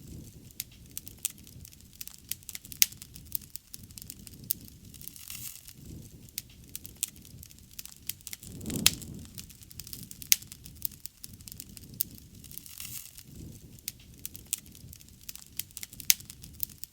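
Bonfire crackling, with frequent irregular sharp pops and snaps over a low rumble that swells and fades. There is one louder crack and swell of rumble about halfway through.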